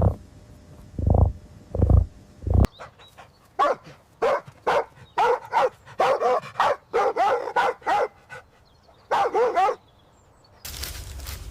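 A dog barking and yipping in a quick series of short, high, wavering calls, after a few deep low thuds in the first three seconds.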